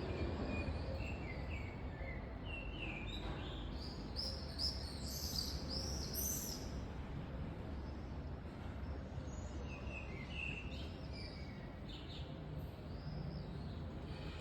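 Small birds chirping and singing in bursts of short high calls, over a steady low background rumble.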